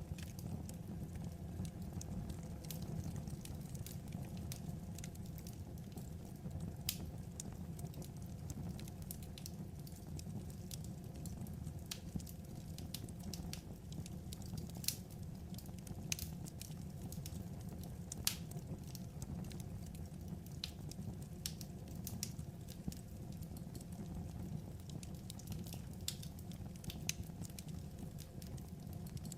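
Wood fire crackling over a steady low rumble, with irregular sharp pops and snaps scattered throughout.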